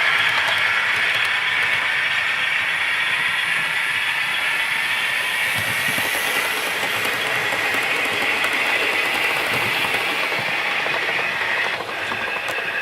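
OO gauge model locomotive running along the layout's track, a steady high rushing noise of its motor, gears and wheels that cuts off suddenly at the end.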